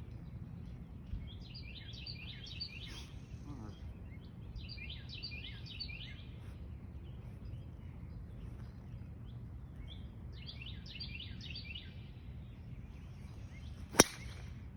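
A songbird singing three phrases of rapid, high chirping notes over a low outdoor rumble. Near the end, one sharp crack of a golf club striking the ball off the tee.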